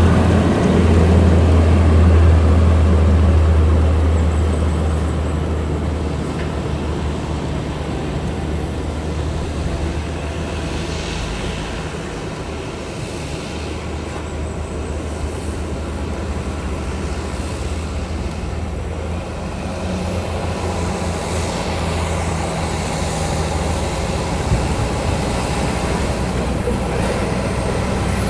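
Heavy haul truck running with a deep engine drone and road noise, loudest at the start, easing off from about ten seconds in, then building again in the last third.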